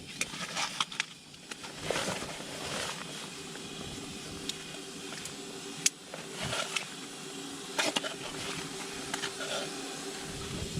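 Scattered clicks, taps and rustles of kit being handled, over a steady hiss with a faint low hum.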